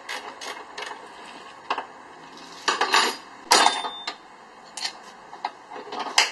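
Hand tools and metal parts clinking and clanking in scattered knocks, the loudest about three and a half seconds in.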